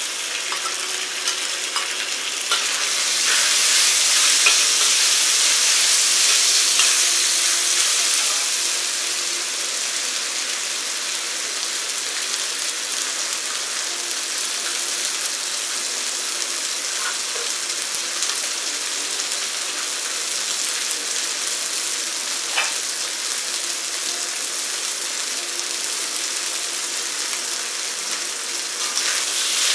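Food sizzling in a wok as it is stir-fried, with a few clicks and scrapes of a metal spatula against the pan. The sizzle is louder for several seconds soon after the start, then settles to a steady fry.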